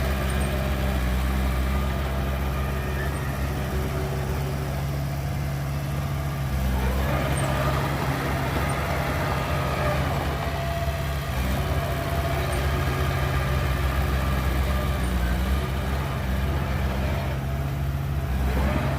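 Heavy diesel engine of a dump truck or bulldozer running steadily. About a third of the way through it revs up, rising in pitch, and then holds the higher note.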